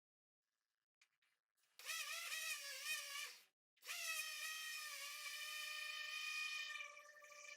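High-pitched whine of a handheld power sanding tool. It is silent at first, runs briefly and unsteadily about two seconds in, stops for a moment, then runs steadily from about four seconds in.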